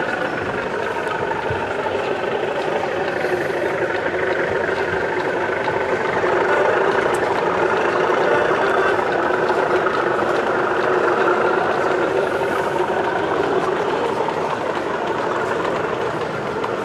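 Engine sound of a sound-fitted O gauge model diesel locomotive, a steady multi-tone engine note that rises in pitch and level in the middle, as if revving up, then eases back down.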